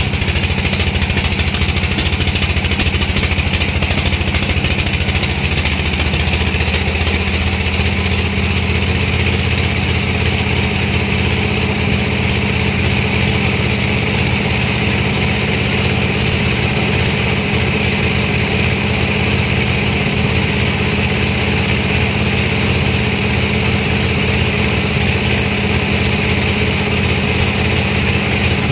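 Engine running steadily, its pitch shifting a little about six to eight seconds in.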